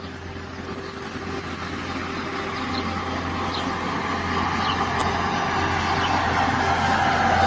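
A vehicle approaching, its steady noise growing louder throughout.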